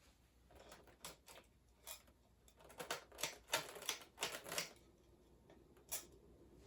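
Irregular light clicks and taps, bunched together in the middle, over the faint hum of a Hunter Comfort Breeze ceiling fan motor spinning up to medium speed.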